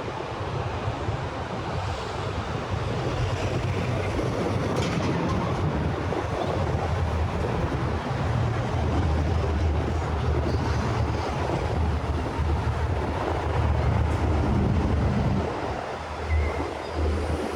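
City street traffic: a steady rush of passing vehicles with a low rumble, swelling louder through the middle.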